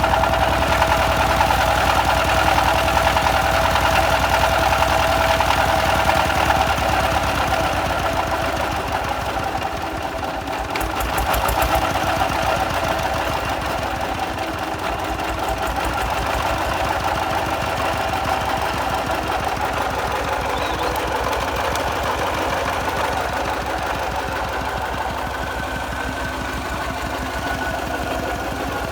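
Small Kubota farm tractor's engine running steadily with a knocking clatter; the engine note drops off briefly about ten seconds in, then picks up again.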